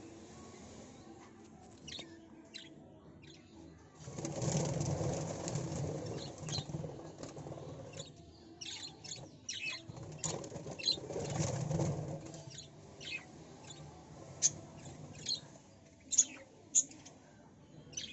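Birds giving short, sharp, high chirps, scattered and irregular, with a few louder single calls near the end. Twice a rushing noise swells up for a couple of seconds.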